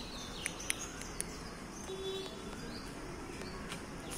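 Birds chirping and calling, with a few short sharp chirps in the first second or so, over steady outdoor background noise.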